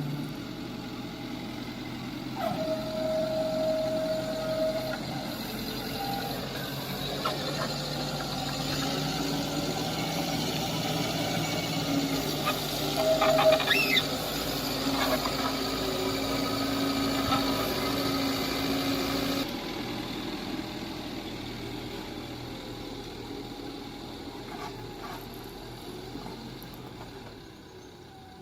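Heavy diesel machinery, an excavator and tipper trucks, running steadily, with a held tone a few seconds in and a few sharp knocks about halfway. The sound drops abruptly about two-thirds of the way through and fades toward the end.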